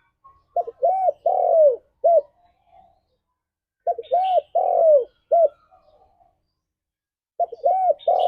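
Spotted dove cooing: three repeats of its phrase, about three and a half seconds apart. Each phrase is a quick short note, two rounded coos, a long drawn-out coo falling at the end, and a short closing coo.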